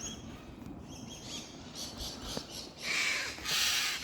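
Birds calling: faint chirps, then two loud, harsh squawks near the end, from birds agitated by a climber in their tree.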